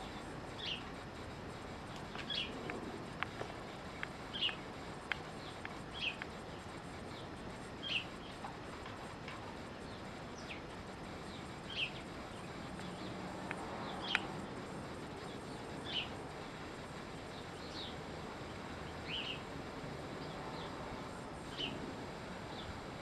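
A bird calling over and over, a short high chirp roughly every two seconds, over a faint steady outdoor hiss.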